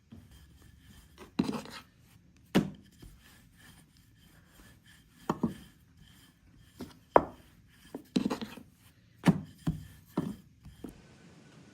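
A run of about eight irregular knocks or thuds, some coming in quick pairs, several with a brief scraping tail.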